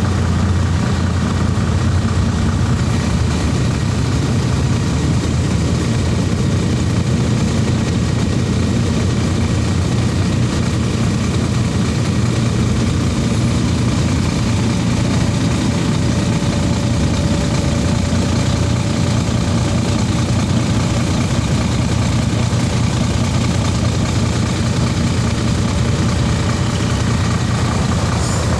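Shacman heavy truck engine running steadily at a constant pitch, with no revving.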